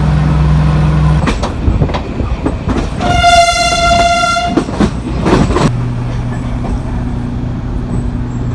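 Mk45 narrow-gauge diesel locomotive sounding its horn once, a single steady note held for about a second and a half, over engine and running noise. The engine hum changes about a second in and settles into a steady lower note near the end.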